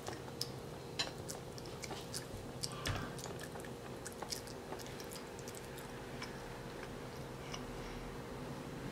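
A child chewing a mouthful of pasta, with small wet mouth clicks through the first few seconds, over a faint steady hum.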